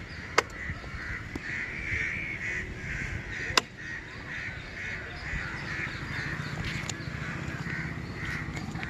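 Birds calling over and over in short harsh calls, with two sharp clicks, one early and one about three and a half seconds in, and a low rumble underneath.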